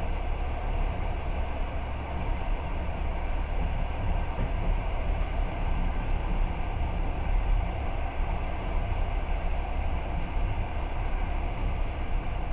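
Passenger train running steadily at speed, a continuous low rumble of the wheels on the track heard from inside the carriage.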